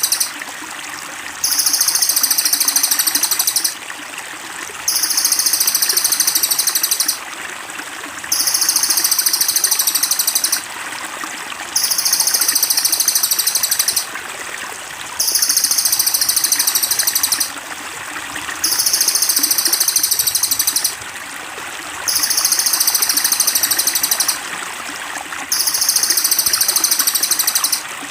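A high-pitched songbird trill, each phrase about two seconds long, repeating at evenly spaced intervals like a loop of a bird-training master recording, over a steady trickle of running water.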